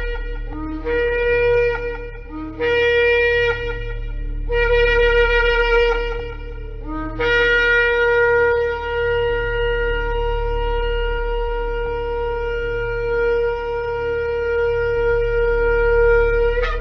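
A shofar blown in a series of blasts. Three shorter blasts of one to two seconds each start on a brief low note and jump up to a higher held note. They are followed, about seven seconds in, by one long held blast of about nine seconds that stops near the end.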